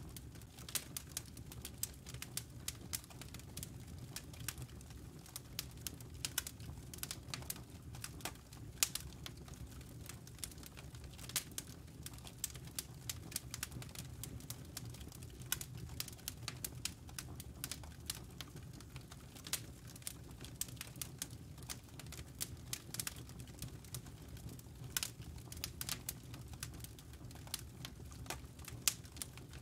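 Wood fire crackling in a fireplace: irregular sharp pops and snaps over a steady low rumble from the burning logs.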